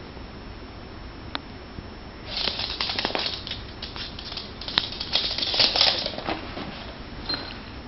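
Kitten and dog play-wrestling: scuffling with quick clicking claws and paws on the floor, in two bursts about a second in length, the second slightly longer and louder.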